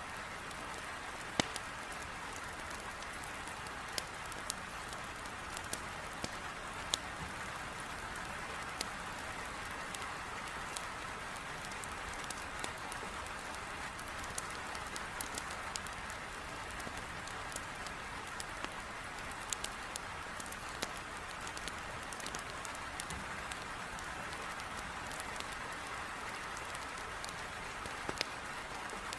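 Steady heavy rain hissing against a window, with frequent sharp pops and crackles from burning firewood in a fireplace.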